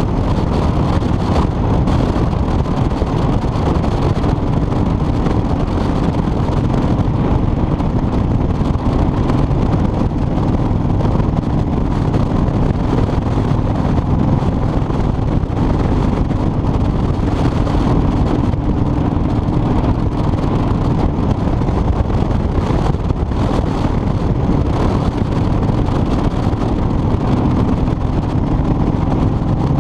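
Motorcycle underway at steady speed: engine running at a constant pitch under heavy wind rush on the microphone.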